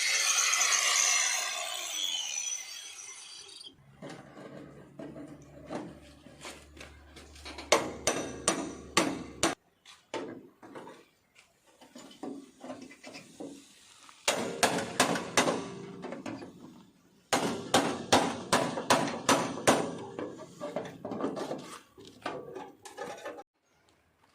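Hammer blows on a car's sheet-metal body while its engine bay is cut out, in several runs of rapid, ringing strikes with short breaks between them. At the start, a power cutting tool runs down, its pitch falling.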